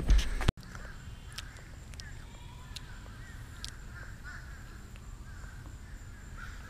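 A brief louder noise cuts off abruptly about half a second in. Then several faint, short bird calls sound over a quiet outdoor background.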